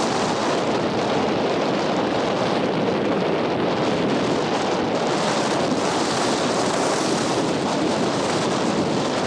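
Strong wind buffeting the microphone: a loud, steady rush.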